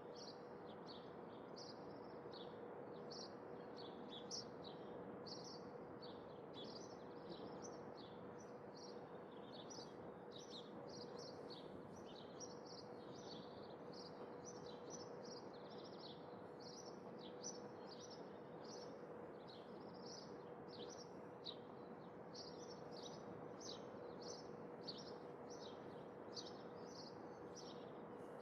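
Songbirds chirping steadily, many short high chirps following one another over a soft, even background hiss, with a faint steady hum underneath.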